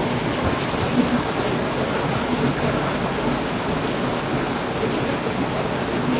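Heavy rain falling steadily, an even hiss with a few louder drips and splashes here and there.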